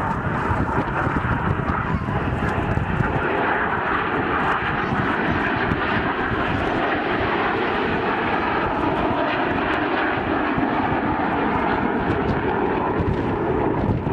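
Aircraft engine noise: a steady, unbroken drone from an aircraft in flight.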